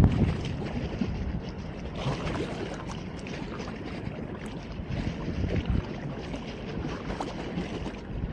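Wind on the phone's microphone, an uneven low rumble with gusts over outdoor noise.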